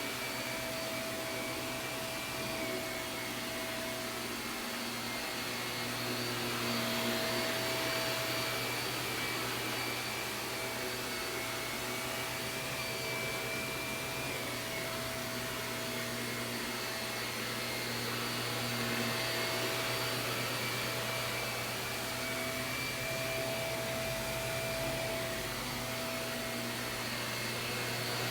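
Shark vacuum cleaner running steadily while vacuuming carpet, its motor whine holding several tones that waver slightly in pitch.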